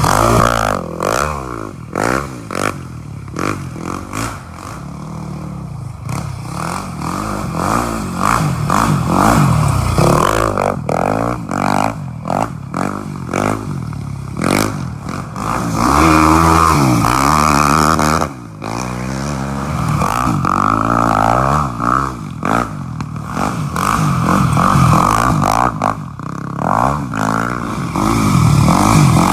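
A small off-road vehicle engine revving up and down again and again, its pitch rising and falling many times, with clattering knocks throughout.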